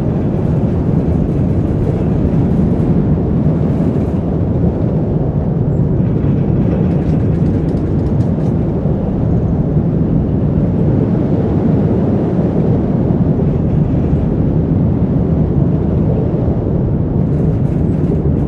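Roller coaster train running along its track: a steady, loud low rumble.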